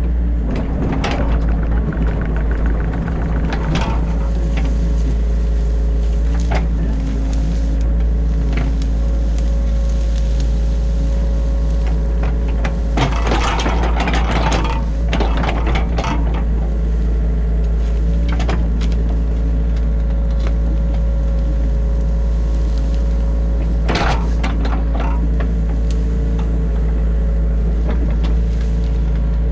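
New Holland E50.2 mini excavator's diesel engine running steadily, heard from inside the cab. Over it come a few louder bursts of scraping and knocking as the machine works, the biggest about halfway through and another near the end.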